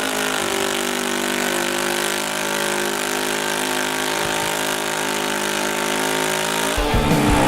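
Modified pulling lawn tractor's engine idling steadily, its pitch drifting only slightly. Near the end a louder, choppy low sound cuts in abruptly.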